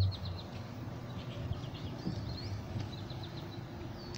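Songbirds chirping in short, quick trilled phrases over a low steady outdoor hum.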